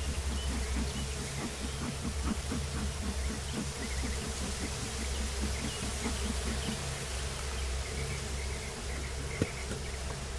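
Honeybees buzzing around an opened hive, a steady hum, with a fast regular pulsing over the first seven seconds and a single sharp click about nine seconds in.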